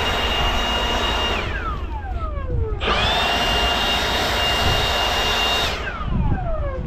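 Leaf blower run in two bursts of about three seconds, each with a steady high whine over rushing air, spinning down with a falling whine each time the trigger is released.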